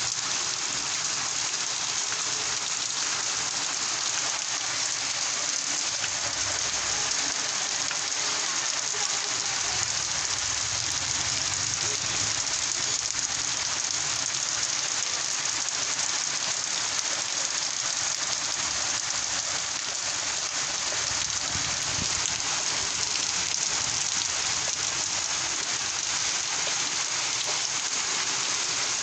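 Rain falling steadily in a Kalbaishakhi (nor'wester) storm: an even, unbroken hiss of rain with no let-up.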